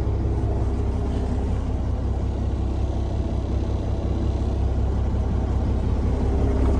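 Caterpillar C15 inline-six diesel of a Peterbilt 379 idling steadily: a continuous low rumble heard from inside the truck's cab.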